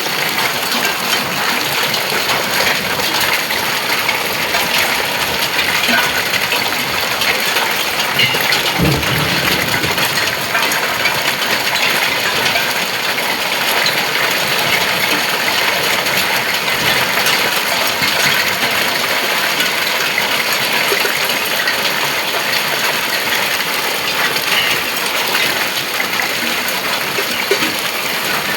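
Heavy rain with hail pelting down: a loud, steady hiss of downpour packed with many sharp ticks of hailstones striking.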